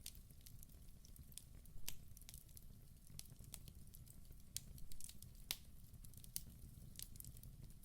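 Wood fire burning in a fireplace: a low steady rumble of flames with sharp, irregular crackles and pops from the burning wood, the loudest a little under two seconds in and about five and a half seconds in.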